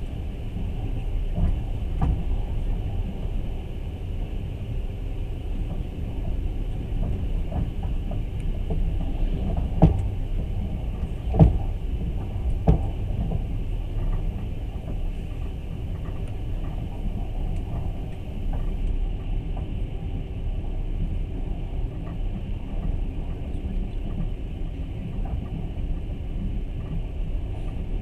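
Steady low rumble of a passenger train carriage running along the track, heard from inside the carriage, with a few sharp knocks about ten to thirteen seconds in.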